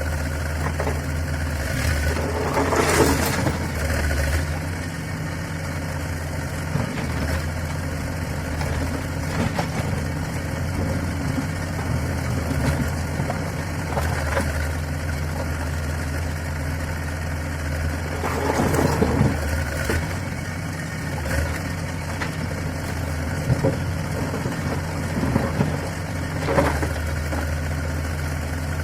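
Diesel engine of heavy construction machinery running steadily at idle, with a few brief louder noisy bursts about three seconds in, around nineteen seconds, and near the end.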